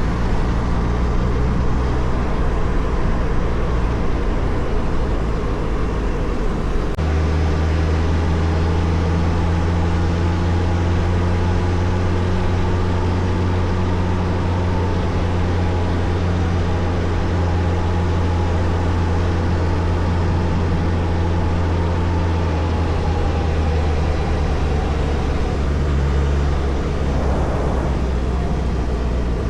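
Suzuki Hayabusa motorcycle's inline-four engine running steadily on the move, with road and wind noise. Its note changes abruptly about seven seconds in, then holds steady.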